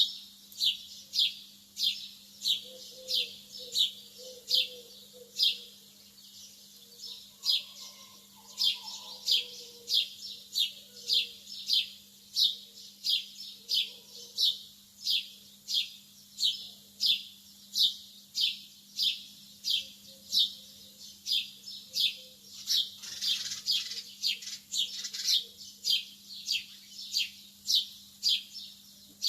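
Lovebirds chirping: a steady series of short, high-pitched, falling chirps, about one and a half a second. About three quarters of the way through, the chirping grows busier, with extra overlapping calls.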